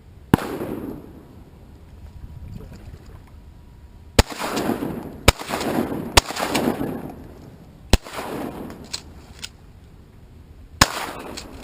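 Six shotgun shots at uneven intervals, three of them close together in the middle, each followed by a rolling echo that dies away over about a second.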